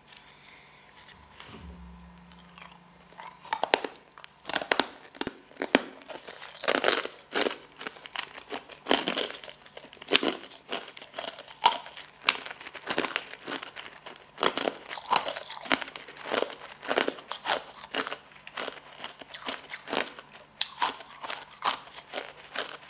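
Biting and chewing sugar-coated jelly balls. Crunches and wet chewing come in irregular bites, starting a few seconds in.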